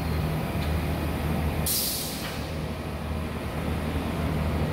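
Car engine running with a steady low drone, and a short hiss about two seconds in.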